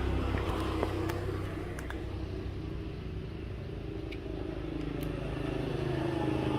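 Motorbike engine running steadily at idle, with a few faint clicks.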